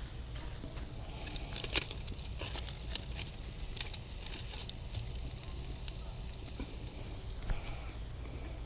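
Steaks grilling over campfire coals: a steady high hiss with sharp crackles and pops now and then, the loudest about two seconds in, as meat fat drips onto the embers and flares them.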